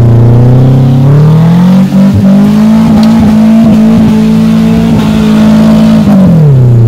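Off-road 4x4's engine revving up, held at high revs, then easing off near the end.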